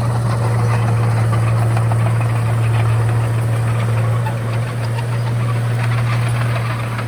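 Komatsu D31A bulldozer's diesel engine running steadily: a deep hum under a dense mechanical clatter.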